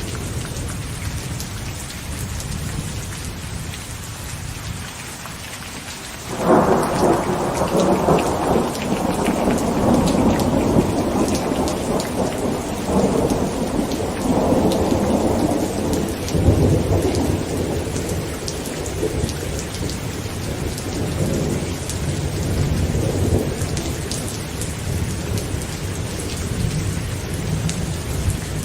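Heavy rain falling steadily on a tent. About six seconds in, a loud clap of thunder breaks and rolls on as a long rumble, slowly fading over the next fifteen seconds or so.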